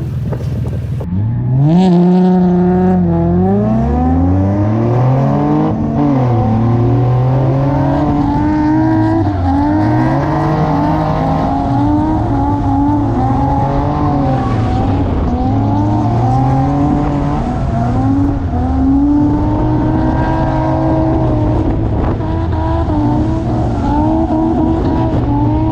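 Car engine on a drift track, its revs climbing and dropping again and again, each rise and fall taking about two to three seconds.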